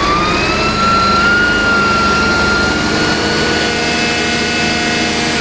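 Hydraulic oil pump whining under load, its pitch rising over the first second and then holding steady over a low machine rumble. The whine is the noise that the new pump makes when working the system.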